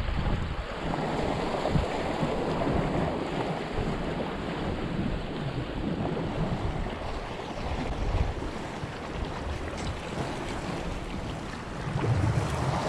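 Strong gusting wind buffeting the microphone over the steady wash of sea waves breaking on a rocky shore.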